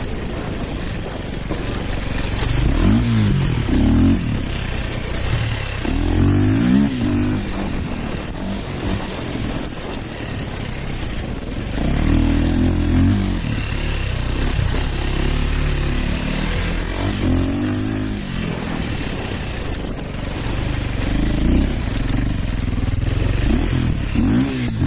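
Dirt bike engines revving, their pitch rising and falling again and again, at times two at once with crossing pitches, over a steady rumbling background.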